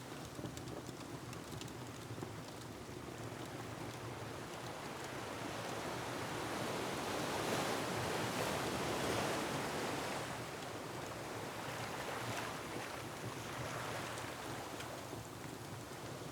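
Ocean surf: a wave builds, peaks about eight seconds in and washes back, with a smaller surge after it. Faint crackles of a wood fire are scattered through it.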